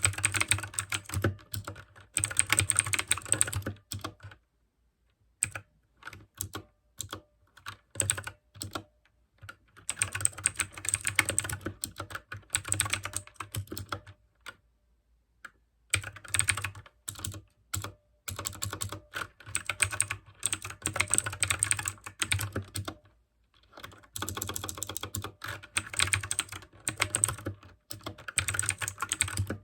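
Mechanical keyboard with clicky blue switches being typed on quickly, in runs of rapid keystrokes broken by short pauses.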